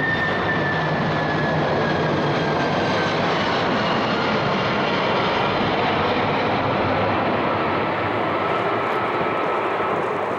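Jet engines of a Boeing 747 airliner flying past, a loud steady noise. A high whine in it falls slowly in pitch over the first few seconds.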